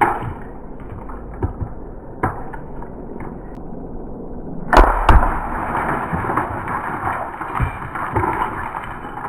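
Air-powered arrow rifle shot: a sharp crack about halfway through, followed a fraction of a second later by a second hit as the arrow strikes the car door and its glass. A sharp knock at the very start and a smaller one a couple of seconds later come before it.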